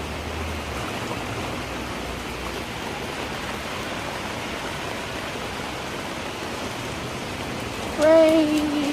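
Heavy rain pouring down in a steady, even hiss. Near the end a voice calls out over it.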